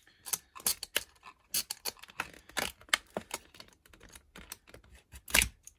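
Irregular clicks and taps of a boxed mortice lock and its plastic packaging being handled as a pick tool is worked in through the packaging, with one louder knock near the end.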